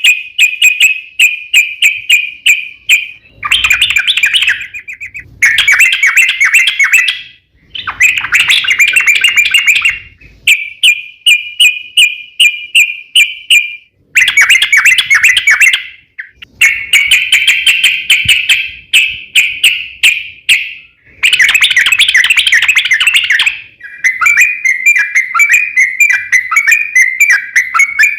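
Yellow-vented bulbul (trucukan) singing loudly in long, fast rattling phrases of rapid repeated notes. Each run lasts a few seconds, with brief pauses between them. Near the end the song drops into a lower, wavering run of notes.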